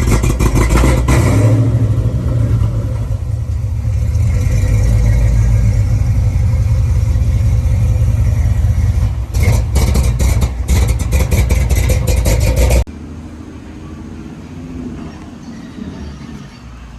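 Loud car engine and exhaust running and revving, with crackling pops at the start and again between about 9 and 13 seconds. It cuts off abruptly about 13 seconds in, leaving a much quieter background.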